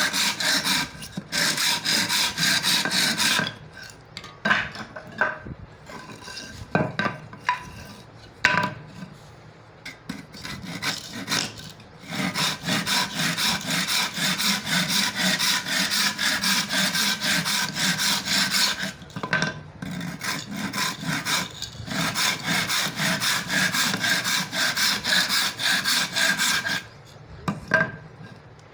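Hand saw cutting wood in quick, regular back-and-forth strokes. There are several long runs of sawing, with a quieter stretch of scattered knocks in the first half.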